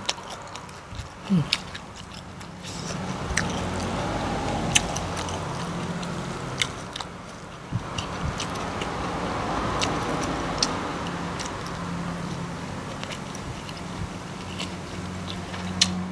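Close-up chewing of a mouthful of jackfruit salad, with wet mouth clicks and smacks scattered throughout. From about two and a half seconds in, a vehicle engine runs steadily as a low hum underneath.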